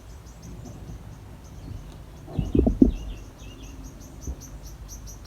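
Small birds chirping: a rapid, evenly spaced run of high chirps, with a few lower falling chirps in the middle. A brief, louder low sound comes about two and a half seconds in.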